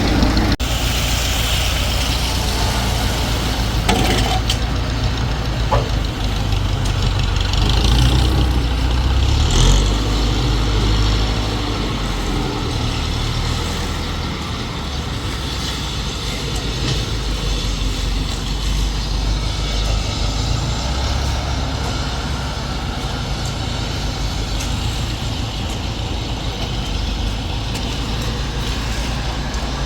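Engine of the concrete-pouring machinery running steadily with a heavy low drone, a little louder for the first ten seconds or so, with a few sharp knocks in the first several seconds.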